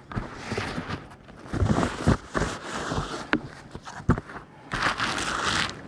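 Handling noises: irregular rustling and scraping with a few sharp knocks.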